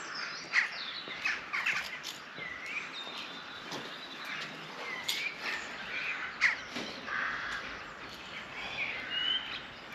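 Several birds calling, with short chirps and quick sweeping calls coming every second or so over a faint steady background hiss.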